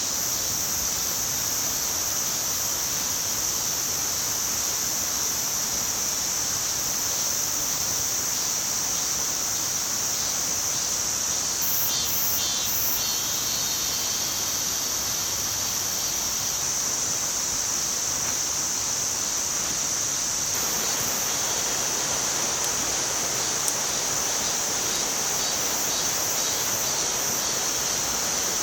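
Steady chorus of insects trilling continuously on one high pitch, over an even rushing hiss.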